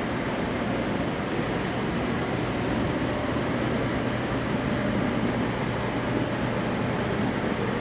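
Steady vehicle rumble and noise with a constant low hum, no distinct knocks or changes.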